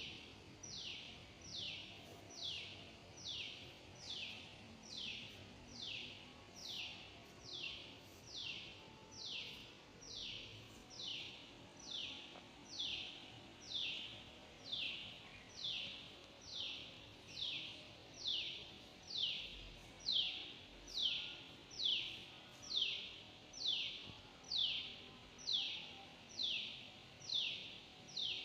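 A bird calling over and over, the same short falling note a little more than once a second, getting louder in the second half.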